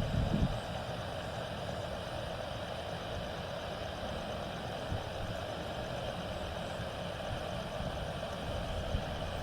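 Aircraft jet engines running steadily with a low rumble, and a brief low thump at the very start.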